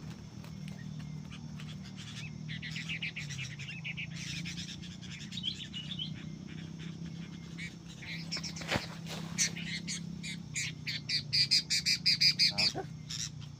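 Sooty-headed bulbul chirping in bouts, ending in a fast run of loud chirps near the end, over a steady low hum.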